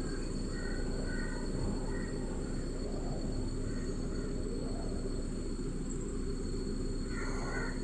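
Steady outdoor background of insects droning continuously at a high pitch, over a low rumble, with a few faint short chirps in the first couple of seconds and a voice starting near the end.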